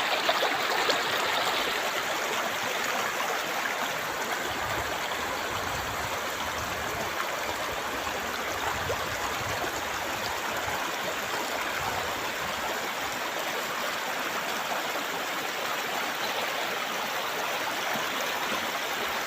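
Shallow river flowing over stones, a steady rush of running water, a little louder in the first couple of seconds.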